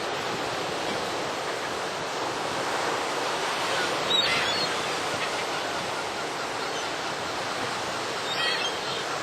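Ocean surf washing steadily onto the beach, with a short high gull cry about four seconds in and a few more brief cries near the end.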